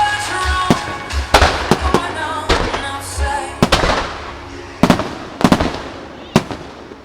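Aerial fireworks shells bursting: a run of sharp bangs, each with a trailing rumble, over show music that stops about halfway through. The bursts thin out and the sound dies down near the end.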